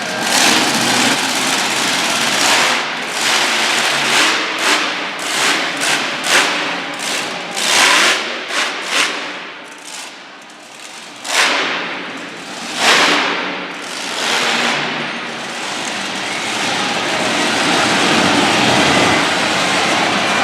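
Monster truck engine revving hard in repeated short bursts, with two louder blasts partway through. It settles into a steady loud run near the end.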